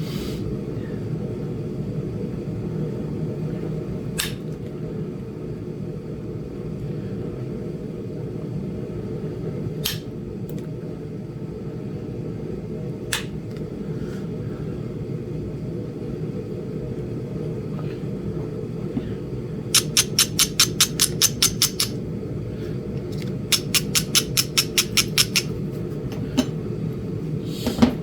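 Flintknapping on a Flint Ridge chert biface: a few single sharp clicks of stone against tool, then two quick runs of about ten light taps each, roughly six a second, near the end. A heater hums low and steadily underneath.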